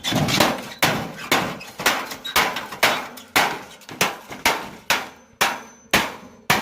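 Repeated hammer blows, about two a second, each a sharp knock that dies away quickly.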